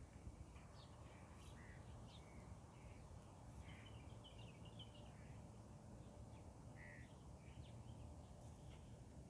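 Faint bird calls, short and scattered, with a quick cluster about four seconds in, over a steady low background rumble.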